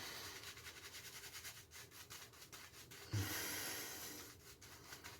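Shaving brush bristles rubbing and swirling lather, a quick scratchy swishing of several strokes a second, with a brief louder bump about three seconds in. The lather is thin, with too little soap loaded.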